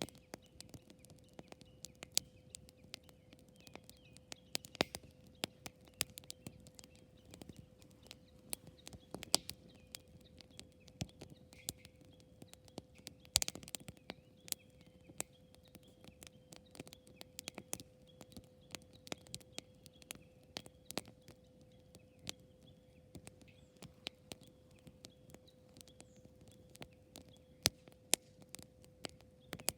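Wood campfire crackling, with many irregular pops and one louder snap about halfway through, over a faint steady hum.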